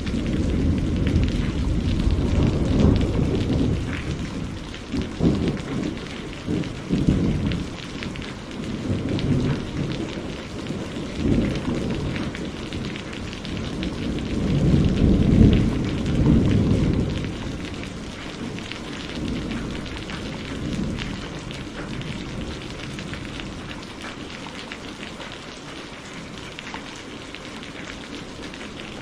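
Steady rain with rolling thunder: long low rumbles swell and fade near the start and again about halfway through, then die away, leaving the rain hissing on alone.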